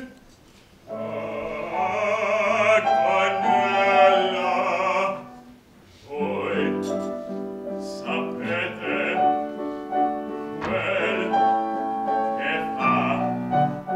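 Operatic singing with piano accompaniment: a long, wavering sung note that breaks into a rapid trill, a brief pause about five seconds in, then the piano and voice carry on.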